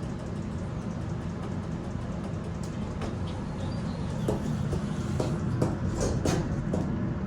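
ThyssenKrupp elevator with a steady low hum, and several light clicks and knocks in the second half as the car is readied to go up.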